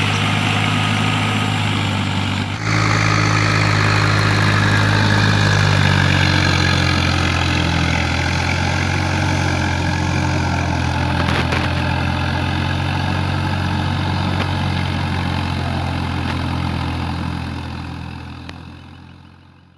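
Tractor diesel engine running steadily, with a brief break about two and a half seconds in; the sound fades out near the end.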